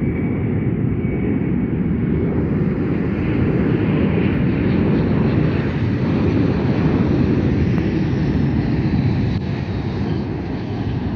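Jet airliner's engines, a loud steady rumble that swells a little in the middle and eases slightly near the end.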